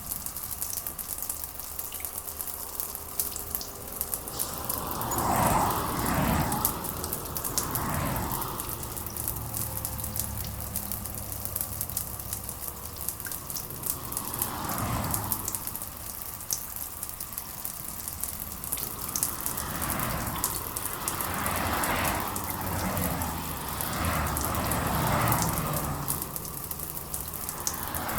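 Rain ambience: a steady patter of raindrops with fine ticking drips, swelling louder several times and easing off again.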